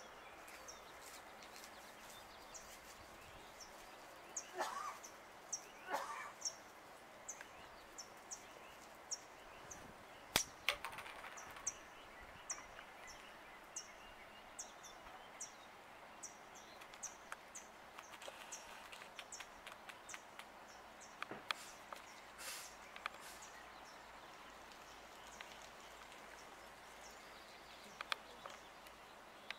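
A bird repeating a short, high call note about once a second for much of the time, then only now and then, over faint outdoor ambience, with a few sharp taps and brief rustles.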